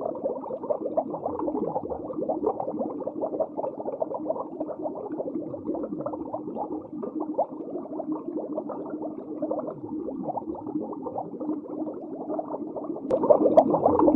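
Continuous muffled bubbling and gurgling of aquarium water, dense with small crackles over a faint steady hum, growing louder about a second before the end.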